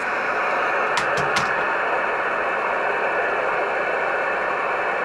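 Steady hiss of band static from an Icom IC-718 HF transceiver's speaker, with a couple of faint clicks about a second in.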